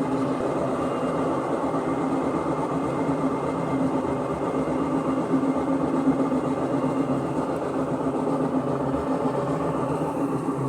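LSE 15 Essential Care washing machine spinning with a loud, steady mechanical rumble and a constant low hum. The noise is the sign of a failing gearbox (transmission).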